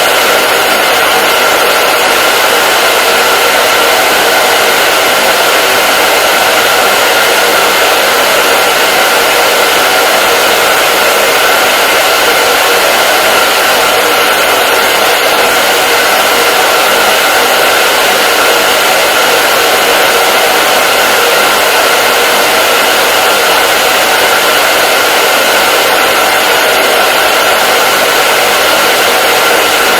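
Hair dryer running continuously: a loud, steady rush of air with a steady whine in it, unchanging throughout.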